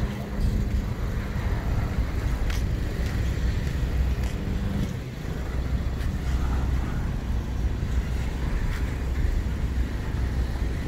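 Low, steady diesel locomotive engine rumble, with a pitched hum that drops away about five seconds in, and wind on the microphone.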